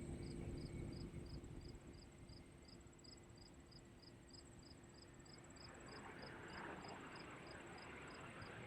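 Insects chirping in a steady rhythm of about three high chirps a second, over a faint low rumble of distant aircraft engines that grows a little louder about six seconds in.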